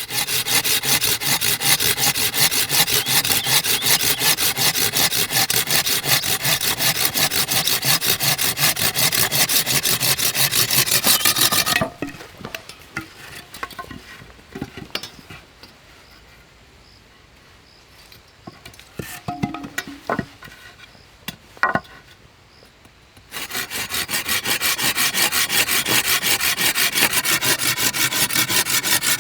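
A hand saw cutting through wood in fast, even back-and-forth strokes. It stops for about ten seconds, with only a few scattered knocks, then starts sawing again near the end.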